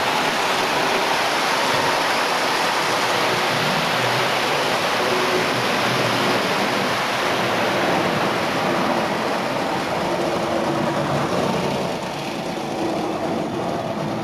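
Postwar Lionel 682 turbine O-gauge locomotive pulling a 14-car train up an incline, struggling; its motor and wheels make a steady rushing rumble on the three-rail track, easing slightly near the end.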